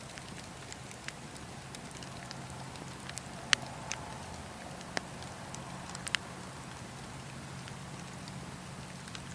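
Wood campfire crackling: a steady low rumble of burning, with scattered sharp pops of the wood, the loudest about three and a half seconds in and a quick pair around six seconds.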